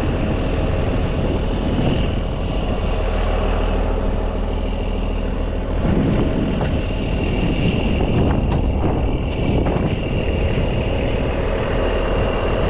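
A heavy truck's engine running steadily, with a steady high whine over it and a few faint clicks about eight to nine seconds in.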